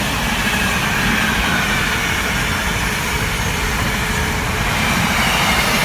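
Freightliner Class 66 diesel freight train passing: a steady, loud rumble of the locomotive and rolling wagons, with a faint high whine above it.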